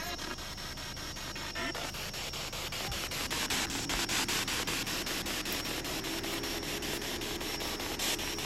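SB7 spirit box sweeping through radio frequencies: a steady hiss of static chopped by rapid, evenly spaced clicks, with a thin high tone running under it.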